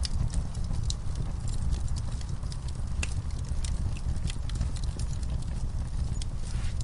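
Burning logs crackling in an outdoor fireplace: irregular sharp pops and snaps over a steady low rumble.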